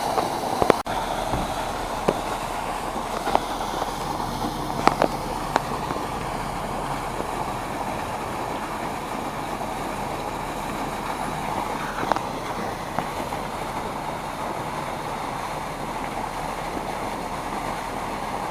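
Vogelsang rotary lobe pump running with a steady rush of water through the pipework, broken by a few sharp knocks.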